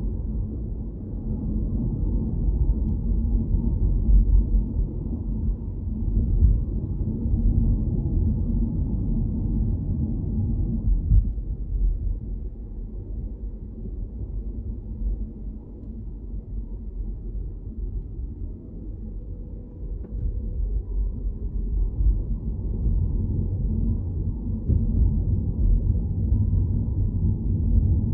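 Low, steady rumble of a car on the move, road and engine noise, easing for a while in the middle before building up again.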